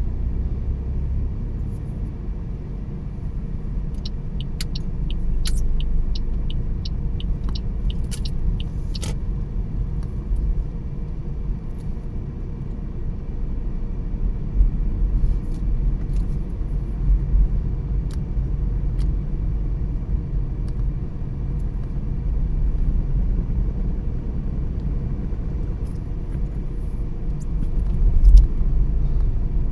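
Car driving at road speed: a steady low rumble of tyres and engine. A few seconds in there is a run of even ticks, about two or three a second, and near the end a single thump.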